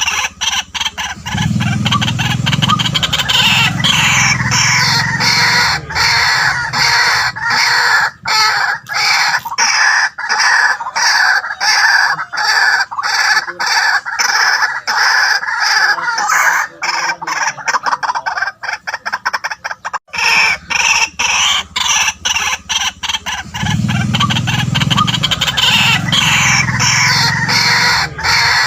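White-breasted waterhen calling: a long, loud chorus of rapid, repeated call notes, with a lower-pitched stretch a second or so in that comes round again near the end.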